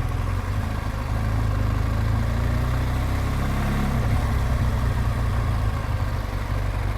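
BMW R1200GSA's boxer-twin engine running steadily at low revs, its pitch shifting slightly about halfway through.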